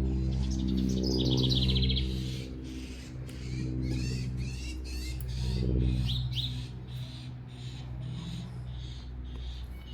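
Songbirds chirping, with a fast trill about a second in and a run of short curved chirps around the middle. Underneath runs a steady low hum.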